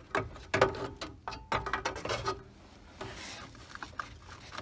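Dashboard parts being handled and fitted under a car's dash: a handful of separate clicks and knocks with light rustling between them.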